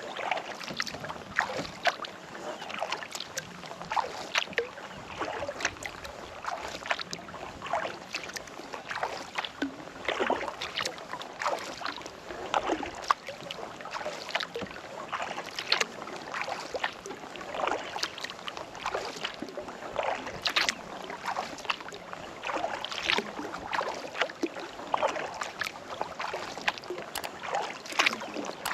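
Kayak paddle dipping into calm lake water stroke after stroke, with small splashes and drips running off the blade.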